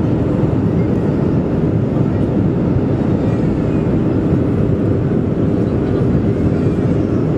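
Steady cabin noise inside the economy cabin of a Boeing 737-400 on approach: a loud, even rumble of its CFM56 engines and the airflow over the fuselage, heaviest in the low range.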